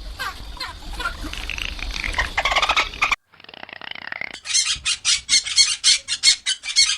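Bottlenose-type dolphin calls: clicks and high rising whistles that break off about three seconds in. After a short gap, a quick run of chirping bursts follows, about four a second.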